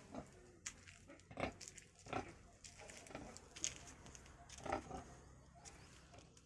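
Pigs grunting: a handful of short grunts at irregular intervals.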